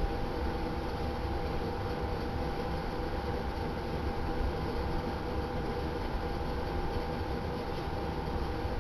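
Steady background hum: a constant drone with a few unchanging tones over a low rumble, unbroken throughout.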